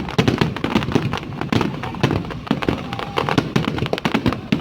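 Fireworks display: a dense, rapid run of overlapping bangs and crackles, many bursts a second.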